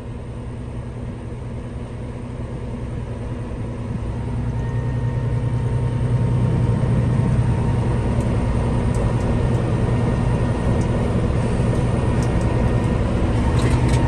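Cummins ISM inline-six diesel engine of a Kenworth W900 mixer truck running steadily, a low hum that grows louder over a few seconds about halfway through and then holds.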